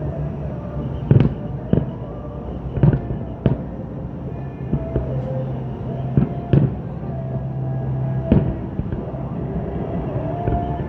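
Fireworks bursting in a display: about seven sharp bangs, spaced irregularly, over steady music played for the show.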